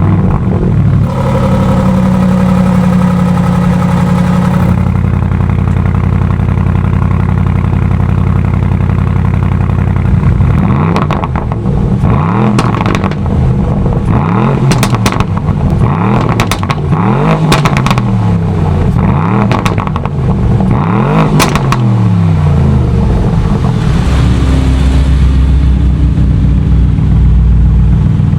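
Aston Martin DBX S 4.0-litre twin-turbo V8 starting up with a sudden loud flare and settling into a raised idle, then a lower steady idle. It is then blipped about six times, each rev rising and falling, with sharp exhaust cracks around the revs, before returning to idle.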